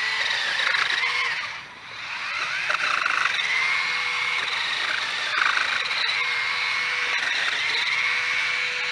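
Ryobi 40-volt battery pole saw with its 10-inch chain running at speed, a high electric motor-and-chain whine. It cuts out briefly about two seconds in, spins back up, and its pitch sags several times with a rougher rasp as the chain bites into wood.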